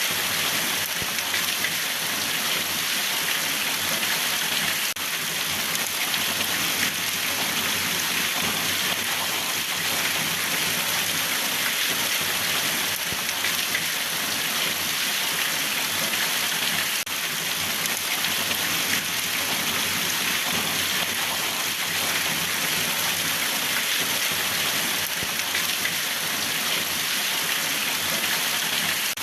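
Steady rain falling on a surface, an even hiss of drops that holds at one level throughout.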